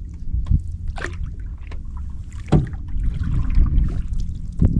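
Canoe paddle strokes in lake water: splashes and drips, with louder strokes about two and a half seconds in and near the end, over a steady low rumble.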